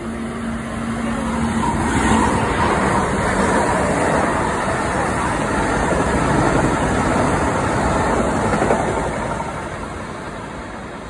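Commuter train passing on the tracks below, its wheels rumbling on the rails. A steady hum in the first two seconds; the rumble swells about two seconds in, holds, and fades from about nine seconds.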